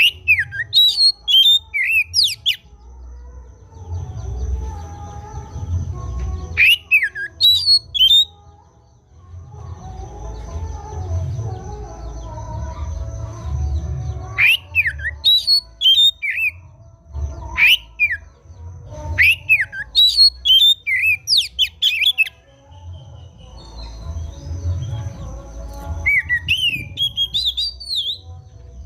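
Oriental magpie-robin singing in short bursts of quick, sweeping whistled notes, several seconds apart, played as lure song to set a silent magpie-robin singing. A continuous low rumble runs underneath, with a faint steady high whine.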